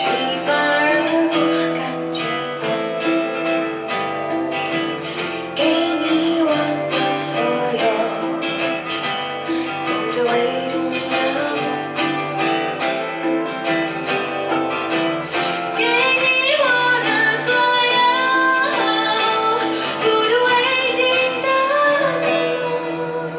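A woman singing with acoustic guitar accompaniment, the music starting to fade near the end.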